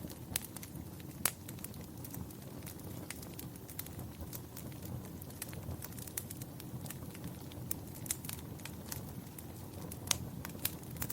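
Wood fire crackling in a fireplace: sharp pops and snaps at irregular intervals over a low, steady sound of burning. A few pops stand out louder, just under half a second in, just over a second in, and twice near the end.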